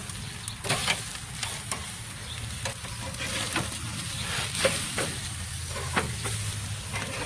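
Food sizzling on a barbecue grill, a steady hiss with frequent sharp crackles and pops.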